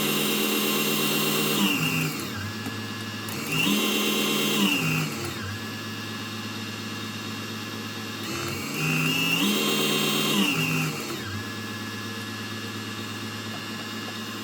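Small DC motor of a mini wood lathe running with a steady whine. It is powered from an adjustable 12–24 V adapter being switched between settings. The pitch and loudness drop about two seconds in, rise around four seconds, drop again, rise near nine seconds and fall once more, following the motor speed up and down.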